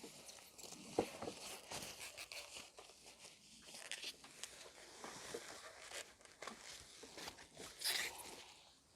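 Packaging being handled: irregular rustling and crinkling with small clicks and taps, a sharp click about a second in and a louder rustle near the end.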